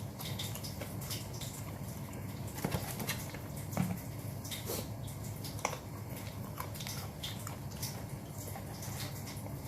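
Close-up eating sounds of grilled chicken being chewed: irregular wet mouth clicks and smacks, a few louder about three and four seconds in, over a steady low hum.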